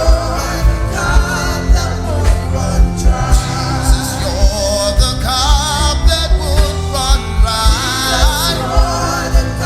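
Live gospel worship music: a voice singing over sustained keyboard chords and a steady low drum beat.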